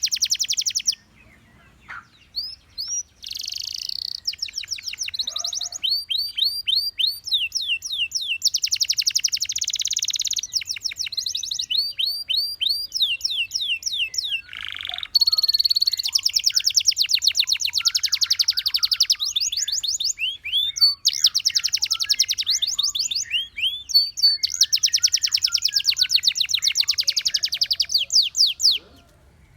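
Gloster canary singing: long runs of fast trills and rapidly repeated high notes, broken by brief pauses. The song breaks off briefly about a second in, resumes, grows louder about halfway through and stops shortly before the end.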